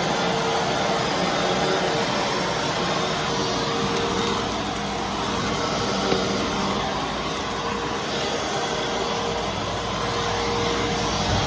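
Fantom Fury Special Edition bagless vacuum cleaner running steadily: a motor's rushing airflow with a constant whine held through it. One light tap sounds about six seconds in.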